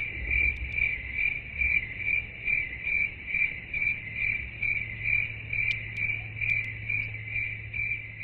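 Crickets chirping in a steady pulsing rhythm, about two to three chirps a second, over a low steady hum. This is the stock cricket effect used to mark an awkward silence.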